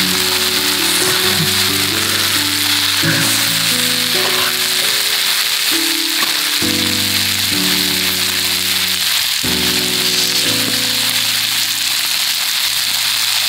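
Bacon-wrapped meat frying in a skillet with a steady sizzle, under background music of slow changing chords.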